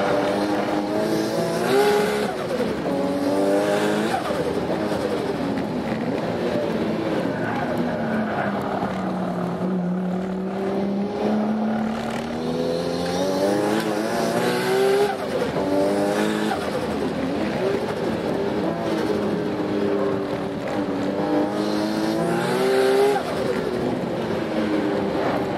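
Nissan RB26 straight-six with a T04Z turbo, swapped into a Toyota Altezza, heard from inside the cabin under hard track driving. The engine note climbs in pitch and drops back at each gear change, with shifts about two and four seconds in. It dips to a lower, slower stretch in the middle, then pulls up through the gears again to a final shift near the end.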